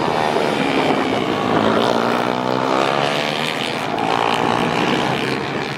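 Engine running, its pitch falling and rising in the middle, cut off abruptly near the end.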